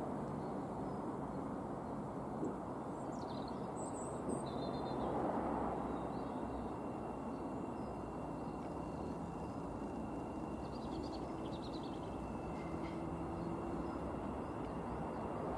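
Class 700 electric multiple unit approaching slowly: a steady low rumble with a faint high whine through the middle. Birds chirp a few times.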